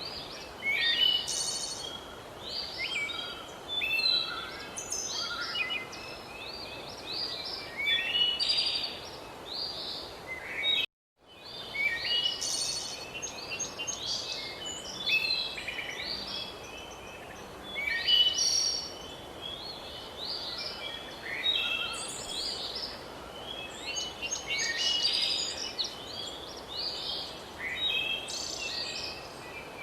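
Several birds singing at once, with dense overlapping chirps and quick trills over a steady background hiss. The sound cuts out completely for about half a second, roughly eleven seconds in.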